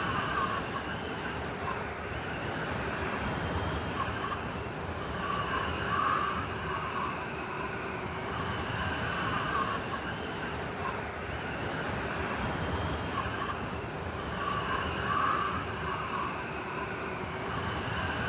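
Blizzard wind howling in gusts: a steady rush with wavering whistling tones that swell and fade, strongest about a third of the way in and again near the end.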